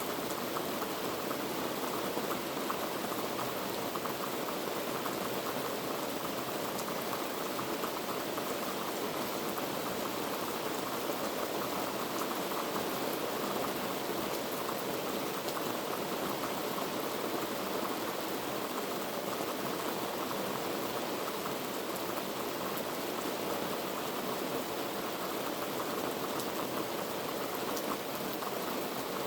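Heavy rain falling steadily, a dense, even hiss of drops pattering on surfaces.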